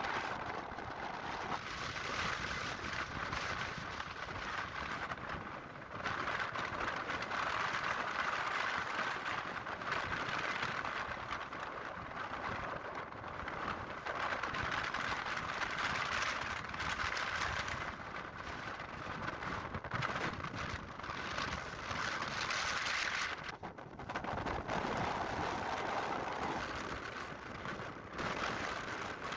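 Strong wind rushing past the microphone, swelling and easing in long gusts every few seconds.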